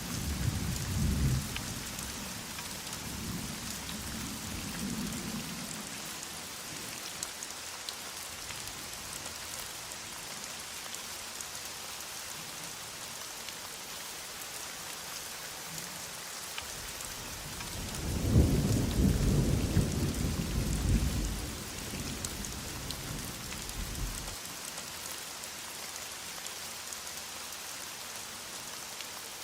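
Steady heavy rain with rolling thunder: a low rumble in the first few seconds and a louder, longer one past the middle.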